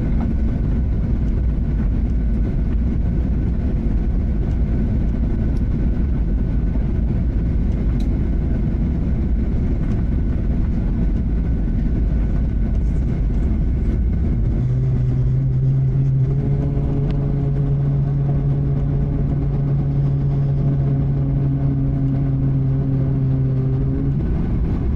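Boeing 737-800 cabin noise after landing: a steady low rumble from the engines and airframe. About halfway through, a steady low droning tone joins it and stops shortly before the end.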